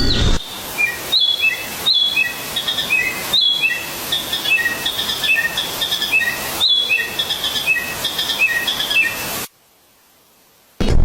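Birdsong: short phrases of clear whistled notes, each stepping down in pitch, repeated every second or so over a faint hiss. It cuts off suddenly near the end, leaving a moment of near silence.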